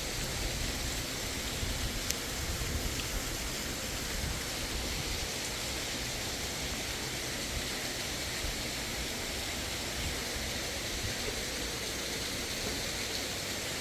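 Steady rushing of a fast-flowing mountain river, an even unbroken roar of water.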